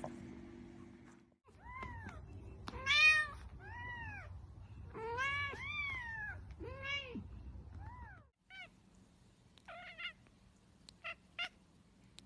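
Domestic cat meowing repeatedly: about eight drawn-out meows, each rising and falling in pitch, the loudest about three seconds in. Near the end come several short, sharp mews.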